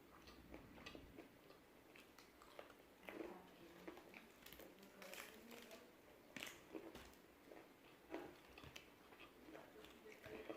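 Close-up biting and chewing of crispy fried chicken: irregular crunches and crackles of the crust, with a few louder bites.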